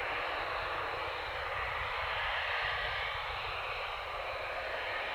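Steady rushing noise of jet aircraft engines running on the airfield, with a low rumble underneath.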